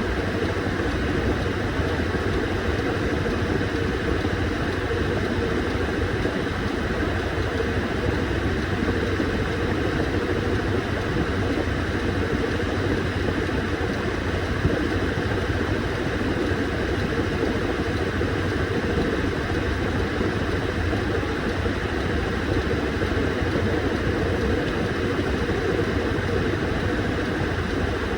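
Washing machine running with a steady motor hum and no change in pace.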